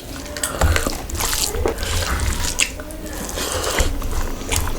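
Close-up eating sounds: wet chewing and mouth smacks with irregular clicks.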